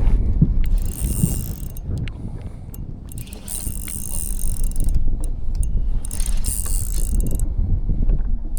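Fishing reel whirring and clicking in several bursts of a second or two, with a fish on the line. A low rumble runs underneath.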